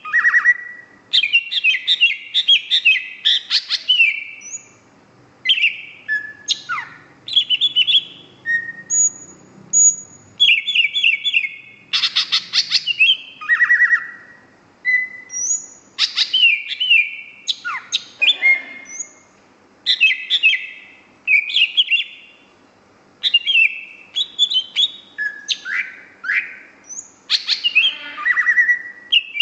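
Green leafbird (cucak ijo) singing: loud, varied phrases of rapid chirps, trills and slurred whistles, each a second or two long, with short pauses between them.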